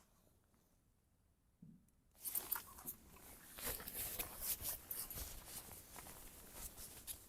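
Near silence, then about two seconds in a dense crunching and rustling sound starts, full of small irregular clicks, and keeps on.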